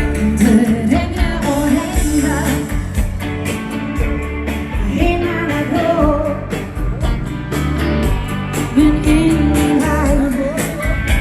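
Danseband music: drums and bass keeping a steady beat under a bending melodic lead line, with no sung words.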